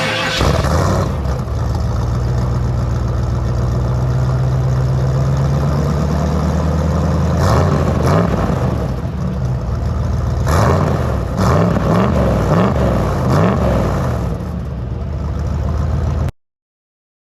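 Full-size Ford Bronco engine running through its new exhaust: it idles steadily, then is blipped and revved repeatedly from about seven seconds in. The sound cuts off suddenly near the end.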